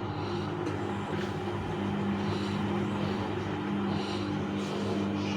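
Vintage Bauknecht WAS 1400 washing machine running, a steady motor hum with a low tone that grows stronger about two seconds in, and a soft swish about every two seconds.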